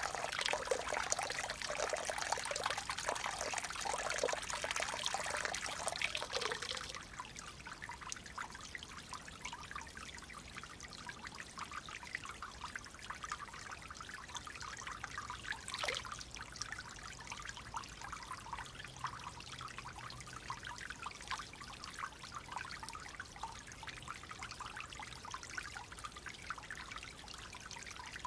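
Clear stream water flowing and trickling. About seven seconds in it drops suddenly to a quieter, lighter trickle, and there is a single faint click about sixteen seconds in.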